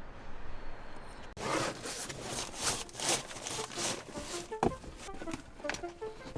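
Rustling and scraping handling noise with scattered clicks, starting abruptly after a short quiet hiss. About halfway in, a light plucked melody of background music enters.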